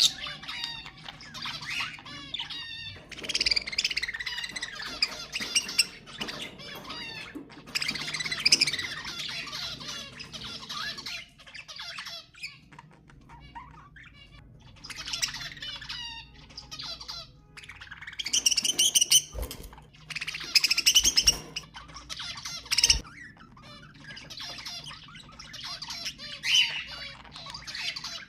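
Budgerigars chattering and warbling with squawks, in quick bursts of chirps broken by short pauses. A few low thumps come about two-thirds of the way in.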